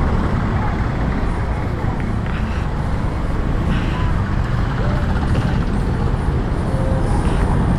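Honda Click 125i scooter's single-cylinder engine running at low speed in stop-and-go city traffic, over a steady low rumble of the surrounding cars and motorcycles.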